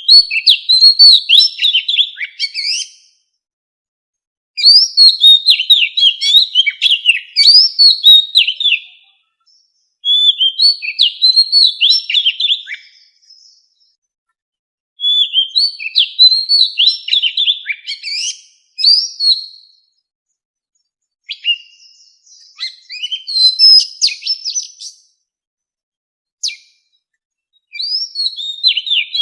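Oriental magpie-robin singing wild-type song: phrases of rapid, varied whistled notes, each about three to four seconds long, with short silent pauses between them.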